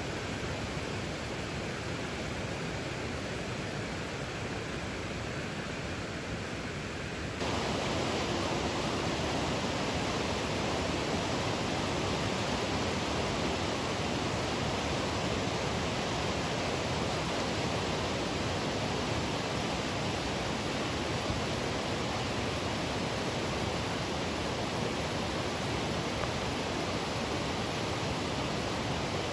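Waterfall: a steady rush of falling water with no other sound, jumping abruptly louder about seven seconds in.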